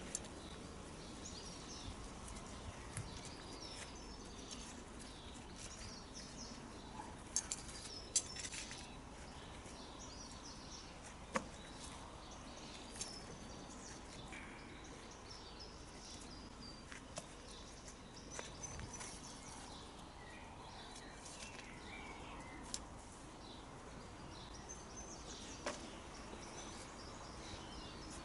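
Quiet outdoor garden ambience with birds chirping and singing here and there, and a few sharp clicks scattered through.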